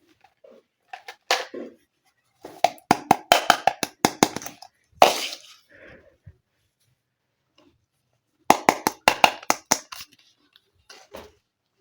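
Small plastic toy kitchen pieces being handled and clicked together, in quick runs of sharp taps and clicks separated by short pauses.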